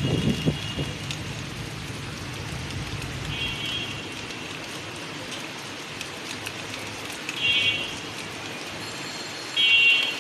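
Steady rain falling, with four short, high-pitched calls at intervals of a few seconds, the last one the loudest.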